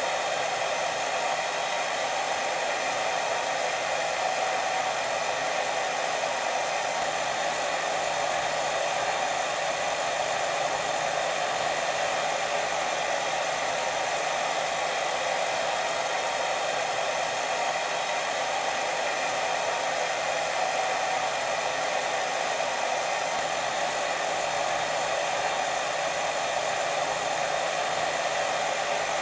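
Steady white noise for sleep: an even, unbroken hiss, strongest in the middle range and thin in the bass, with no change or pauses.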